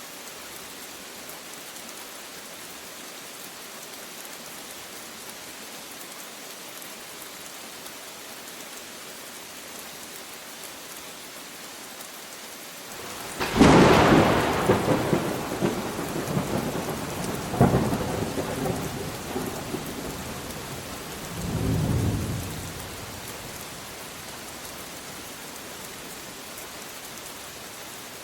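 Steady rain falling, with a thunderclap about halfway through: a sudden sharp crack, a second crack a few seconds later, then a low rolling rumble that dies away, leaving the rain alone again near the end.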